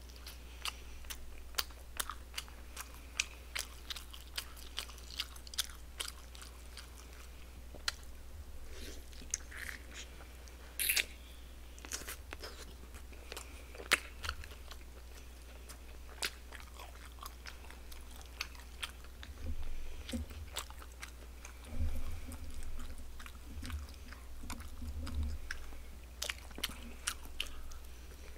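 Close-miked chewing and biting of barbecued pork trotter (jokbal), with many sharp wet mouth clicks and smacks. A few low thumps come in the last third.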